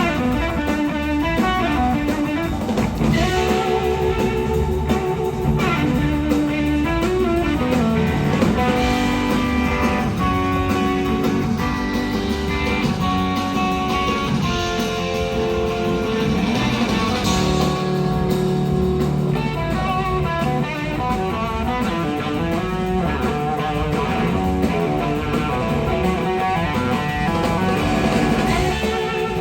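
Electric slide guitar soloing live over the band, with long sustained notes and sliding pitch.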